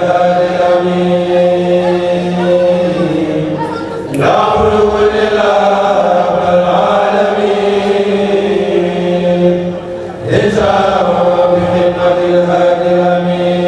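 A kourel chorus chanting a Mouride khassida in unison, with long held notes. The voices break off briefly twice, about four and ten seconds in, and start a new phrase each time.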